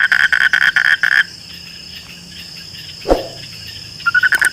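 A frog calling in fast pulsed trills, stopping after about a second and starting again near the end, over a steady high-pitched insect buzz. A short falling sound comes about three seconds in.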